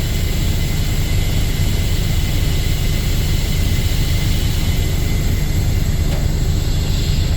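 Dump truck's diesel engine idling, a steady low rumble heard from the cab, with a hiss over it that dies away near the end.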